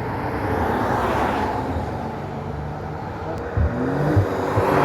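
Performance cars driving past on a twisty mountain road. One car's engine goes by about a second in, a few short low knocks follow near the end, and then a second car approaches, its engine note climbing and getting louder.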